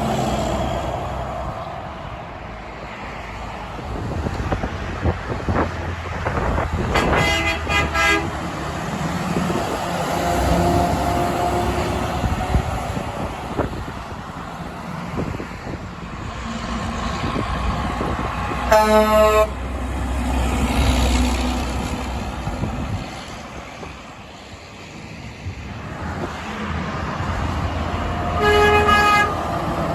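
Road traffic passing, with truck horns tooting in short blasts: a few quick toots about seven seconds in, one blast a little past halfway, and another near the end.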